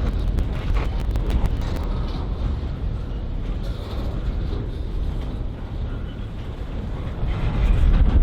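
A vehicle's steady low rumble with some wind on the microphone, a little quieter in the middle and swelling again near the end.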